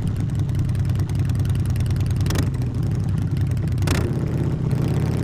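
Harley-Davidson V-twin motorcycle engine running steadily through a loud exhaust, heard from on the bike, with two brief sharp clicks about two and a half and four seconds in.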